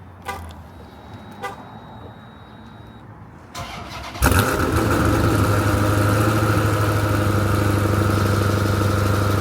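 Chrysler 300 cold start: a few quiet clicks, a brief crank about three and a half seconds in, then the engine catches with a sudden loud flare and settles into a steady, loud cold idle.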